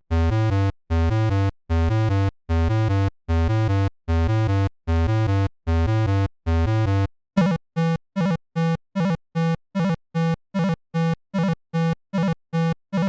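Chiptune-style synthesizer music: a melody of evenly held notes with short gaps, switching about seven seconds in to a quicker run of short, clipped notes, about three a second.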